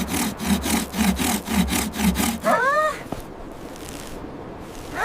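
Saw cutting through wood in quick, even strokes, about four or five a second, stopping after about two and a half seconds. A short pitched cry from a cartoon character follows.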